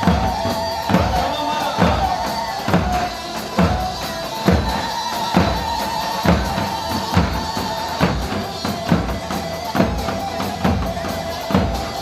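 Live band playing instrumental halay dance music: a heavy drum beat a little under once a second under a held melody line.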